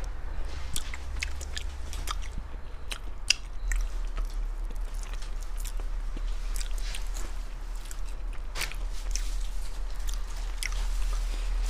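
Close-up eating sounds of a person biting and chewing shrimp: an irregular run of small crisp clicks and crunches over a steady low hum.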